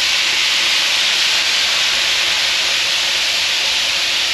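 Diced potatoes and mushrooms frying in butter on a hot Blackstone flat-top griddle: a loud, steady sizzle.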